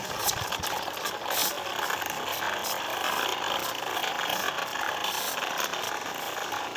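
Toy tractor clattering and clicking steadily, a dense run of small rattling ticks.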